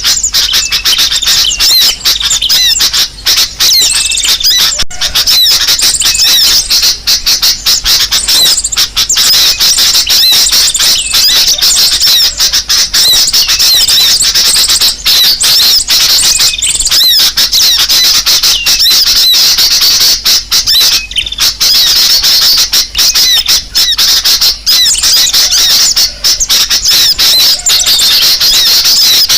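Bird-lure recording of dense, continuous sunbird (kolibri sogok ontong) chirping, mixed with sooty-headed bulbul (kutilang) calls, played loud as a lure to draw in small birds.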